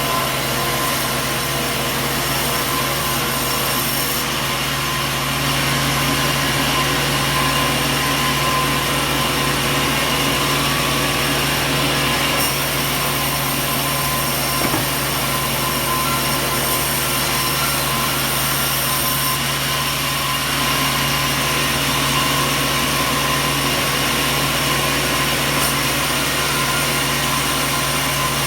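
Sawmill machinery running steadily: a constant motor hum with a steady whine and hiss over it.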